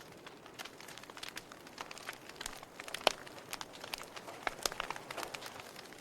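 Wood fire crackling in a fireplace: irregular sharp pops and snaps over a soft steady hiss, with one louder pop about three seconds in.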